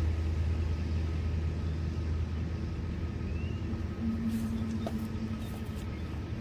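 A steady low rumble like a motor vehicle's, with a short steady hum joining it about four seconds in.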